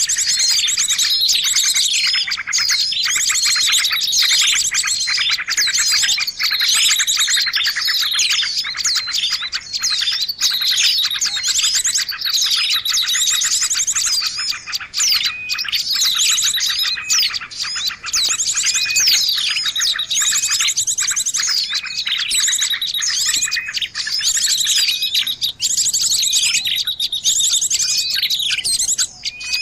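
A noisy mixed chorus of many small birds chirping, whistling and trilling at once, with rapid buzzy trills running under many overlapping short calls. It is a bird-lure recording of the kind played to draw in birds of all kinds.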